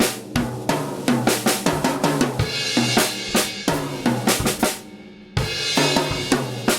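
Acoustic drum kit played live and recorded raw, without processing: quick bass drum, snare and tom hits under crash and hi-hat cymbals. The playing eases off briefly about five seconds in, then comes back in with a loud cymbal crash.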